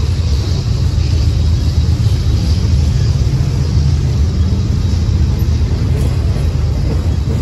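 Freight train of steel gondola cars rolling past, its wheels on the rails making a steady low rumble.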